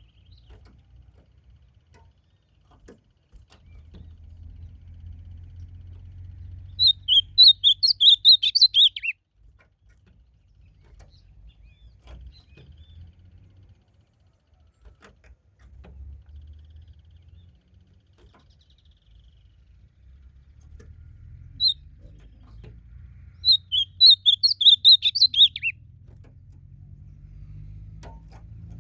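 Ultramarine grosbeak (azulão) singing: two short warbled phrases of quick high notes, each ending in a falling note, about fifteen seconds apart, with a single note shortly before the second phrase. A faint low rumble lies under it.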